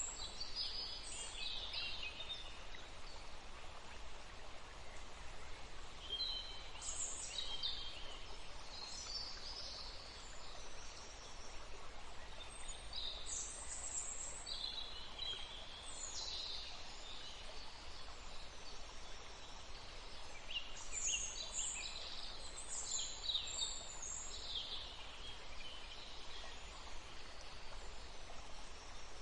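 Steady rush of running water with many birds chirping and singing over it, in short high calls scattered throughout.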